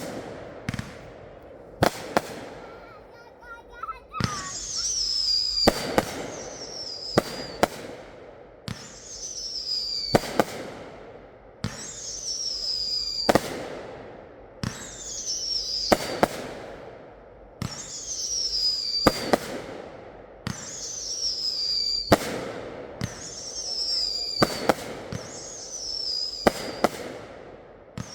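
Fireworks going off in a steady series, about one shot every one and a half seconds. Each shot gives sharp bangs and a whistle that falls in pitch, over continuous crackling.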